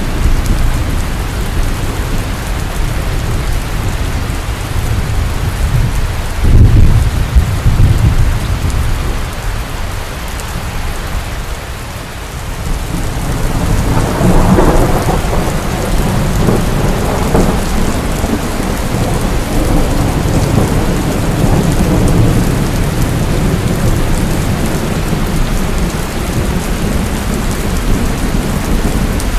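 Heavy rain falling steadily with thunder: a sharp low clap about seven seconds in, then a long rolling rumble that swells about halfway through and slowly fades.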